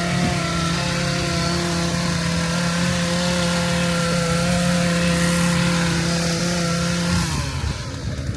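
An engine running steadily with a droning hum that cuts off suddenly about seven seconds in.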